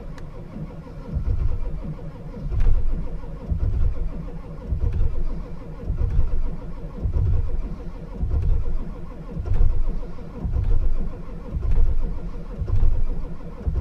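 Ford 7.3 diesel V8 being cranked on a cold start, surging about once a second as some cylinders catch but never running on its own. The engine is cold-soaked and just short of starting, needing one or two more cylinders to fire.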